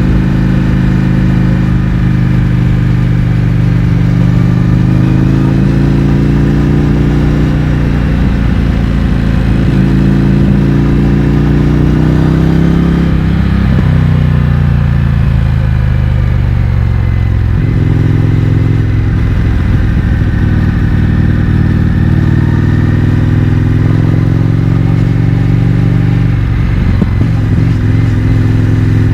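Indian FTR 1200's V-twin engine running through an Akrapovič exhaust with the baffles removed, heard from on the moving bike. Its pitch climbs under throttle for several seconds, falls about halfway through and again a few seconds later, then holds fairly steady.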